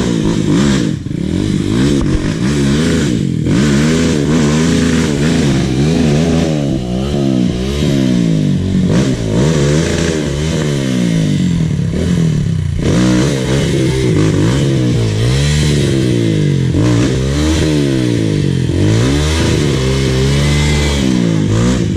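Dirt bike engine being ridden, its pitch rising and falling over and over as the throttle is opened and closed every second or two.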